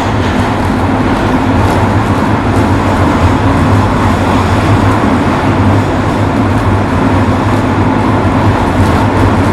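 Running sound inside a JR Kyushu 103 series 1500-subseries electric train at steady speed: a loud, even rumble of wheels on rail with a steady hum underneath. The sound steps up a little just at the start, then holds level.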